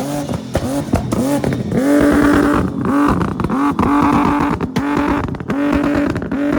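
Car engine revved hard again and again. Each rev climbs quickly and then holds at the same top pitch for a moment before dropping, several times in a row.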